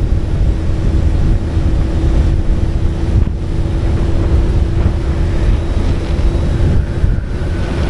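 Motorcycle engine running at road speed, a steady low rumble with wind buffeting the microphone.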